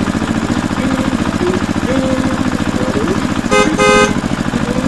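A mini tractor's engine running with a steady, fast chugging beat. About three and a half seconds in, a horn toots twice in quick succession, the loudest sound here.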